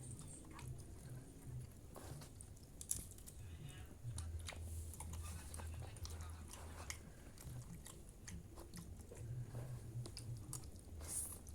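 People chewing and eating from plates, with scattered small clicks throughout.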